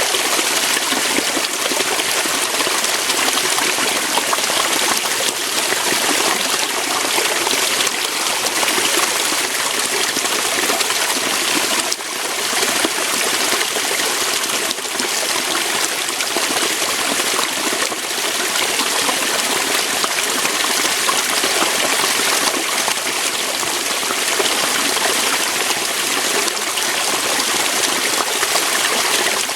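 Waterfall: water pouring and rushing over rocks in a steady, dense hiss, with a brief slight dip about twelve seconds in.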